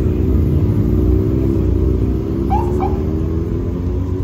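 Lexus LFA's V10 engine running steadily at low revs as the car creeps past and pulls away.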